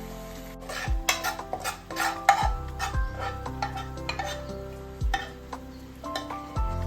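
Food being stirred in a frying pan: a quick, irregular run of utensil scrapes and clinks against the pan over a light sizzle, mostly in the first half. Soft background music plays underneath.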